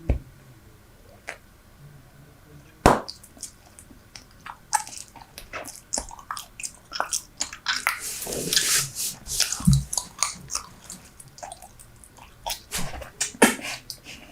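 Close-miked chewing of Super Bubble bubble gum: wet smacks and sharp clicks, a few sparse ones at first, then coming thick and fast from about four seconds in.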